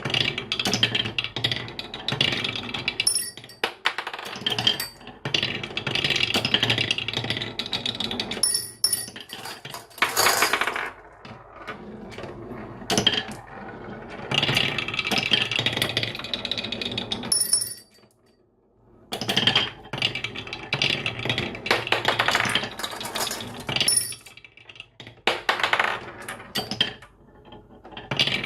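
Many marbles rolling and clattering down a wooden marble run, with a brief pause a little past halfway.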